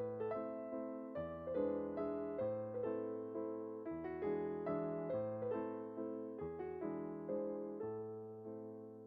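Background piano music: gentle chords with a melody and a bass line, chords changing at a steady pace.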